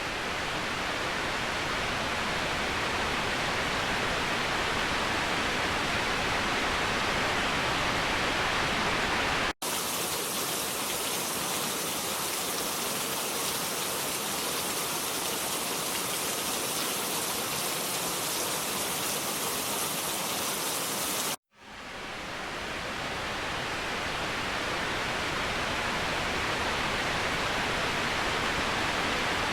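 Waterfall: a steady rush of falling water. It cuts out abruptly twice, about a third and about two-thirds of the way through. Between the cuts it turns thinner and hissier.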